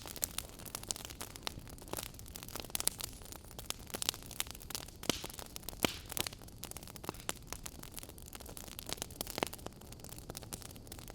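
Wood fire in a fireplace crackling, with irregular sharp pops and snaps over a steady low hiss.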